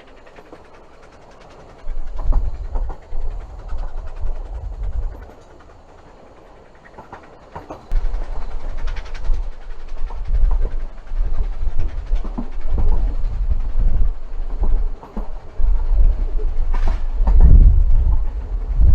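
A railway train running along the track, with wheel clatter and irregular surges of deep rumble that come and go, busier and louder in the second half.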